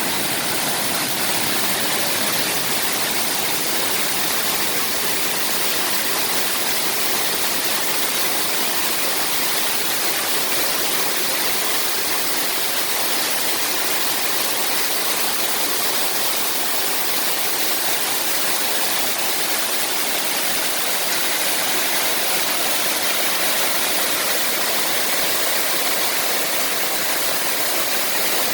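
Waterfall cascading down rock: a steady, even rush of falling water.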